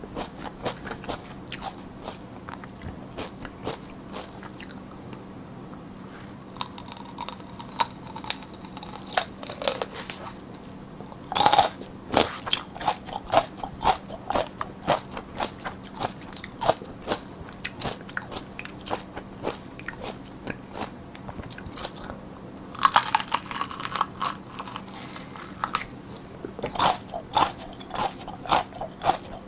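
Crisp bites into raw mini sweet peppers (mini paprika) and wet crunchy chewing, close to the microphone. The loudest bites come about a third of the way in and again about three-quarters through.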